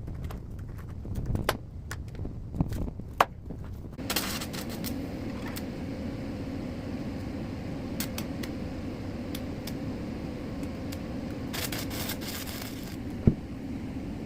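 A few clanks and clicks of steel being handled, then about four seconds in an arc welder starts and runs steadily with a crackling hiss, welding a steel plate onto a tractor rim. One sharp knock near the end.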